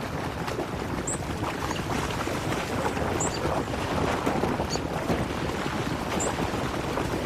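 Wood buffalo (bison) wading across a creek: continuous splashing and rushing water. A small bird gives a short high chirp about every one to two seconds.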